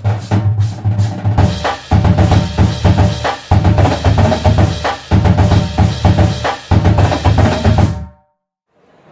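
Marching drumline of snare drums and bass drums playing a fast, loud passage of dense strokes. It cuts off abruptly about eight seconds in, leaving near silence.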